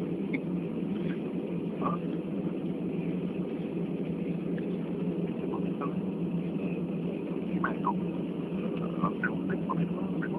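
Steady low drone of an airliner cabin on the ground after landing: the engines and air conditioning running evenly, with faint snatches of passengers' voices here and there.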